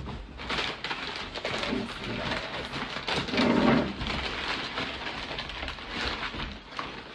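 A cardboard box and its packaging being opened, with steady rustling and crinkling and a louder low patch about halfway through.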